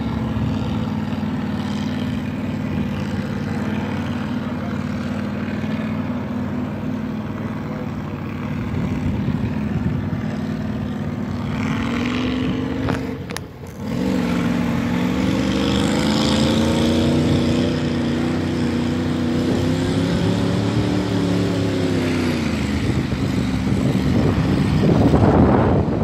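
Ford truck's engine running steadily, then revving up about twelve seconds in, dropping off sharply for a moment and picking up again to run at higher revs, which rise and fall before easing back near the end.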